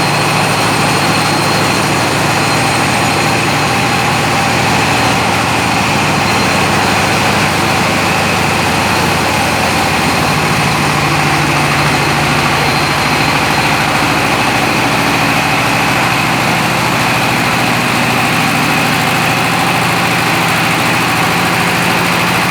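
The 12.5 kW diesel engine of a Maize Master MM500 maize mill running steadily. The even, unbroken machine noise carries a constant high whine above it.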